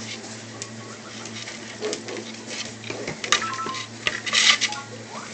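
Great Pyrenees puppies scrabbling and scuffling, claws scratching and clicking on the floor, with a louder flurry of scratching and a couple of brief squeaks a little past halfway.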